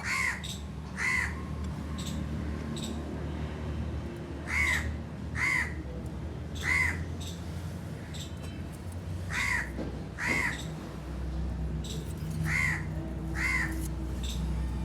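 A bird calling over and over, mostly in pairs about a second apart, with short gaps between the pairs, over a steady low hum.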